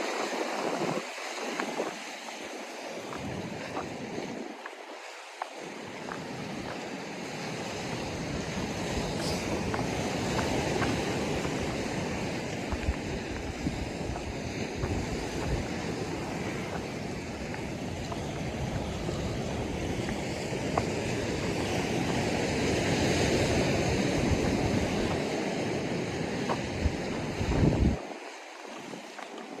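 Ocean surf washing onto the shore, swelling and easing, with wind buffeting the microphone that drops away near the end.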